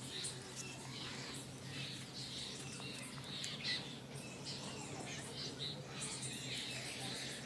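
Birds chirping in short, irregular calls, over a steady low hum.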